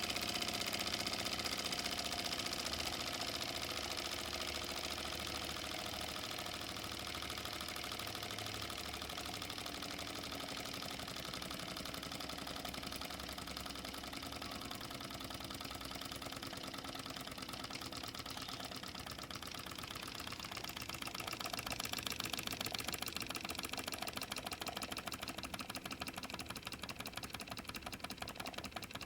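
Mamod SP6 miniature stationary steam engine running steadily, its double-acting cylinder making a rapid, even light beat like a sewing machine. It runs on the boiler's remaining steam with the burner off, and grows somewhat louder about two-thirds of the way through.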